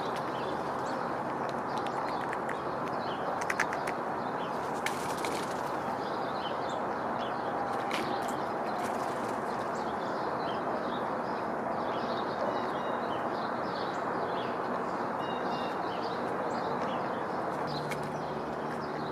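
Small birds at a feeder giving short, high chirps scattered throughout, with a few brief flutters or clicks, over a steady rushing background noise.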